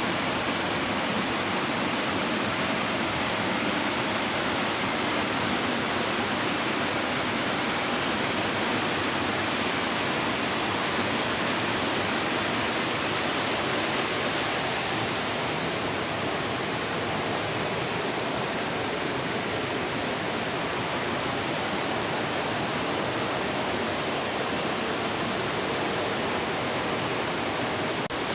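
Steady rush of river water tumbling over a cascade, easing slightly about halfway through.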